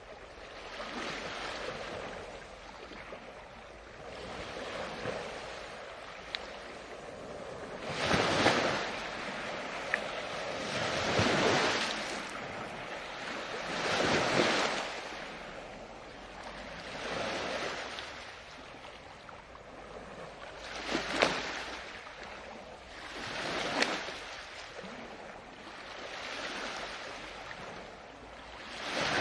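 Ocean waves breaking and washing up the shore, each surge swelling and fading about every three seconds, with a couple of sharper splashes in the last third.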